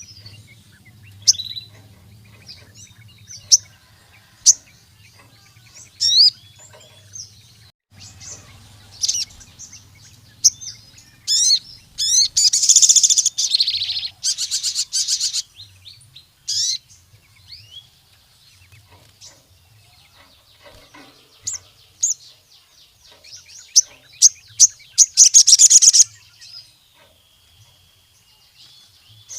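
Sogon (crimson sunbird) singing: sharp, high chirps and short trills with pauses between them. Twice there is a loud run of rapid-fire notes, once around the middle and once near the end.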